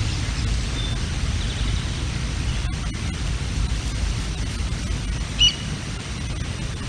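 Strong wind buffeting the nest camera's microphone: a steady, uneven low rumble. A single short, high chirp sounds about five and a half seconds in.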